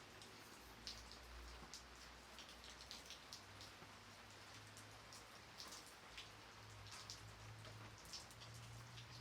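Light rain falling: a faint, steady hiss with scattered individual drops ticking close by, over a faint low hum.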